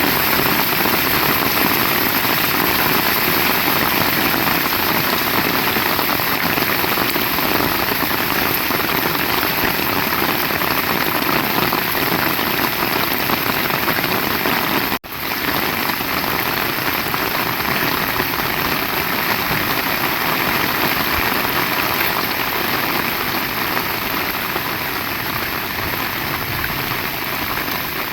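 Heavy rain falling steadily, a dense even hiss that cuts out for an instant about halfway through.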